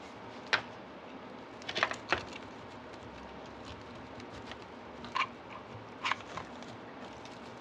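Handling of a wreath during gluing: a few brief, light clicks and rustles, about five, scattered over a quiet background.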